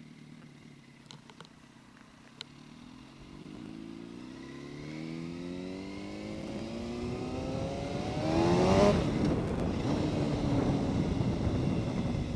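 Yamaha R1 inline-four motorcycle engine pulling away, its pitch rising steadily for several seconds under acceleration, then giving way to a louder steady rush of engine and wind at speed.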